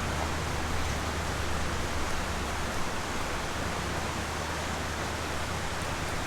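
Steady rushing noise with a low hum underneath, even throughout.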